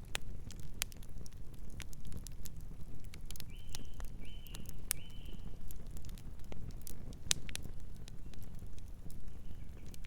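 Campfire crackling: a steady low rumble of burning wood broken by sharp, irregular pops and snaps. Three short high chirps from a night bird come in quick succession about three and a half seconds in.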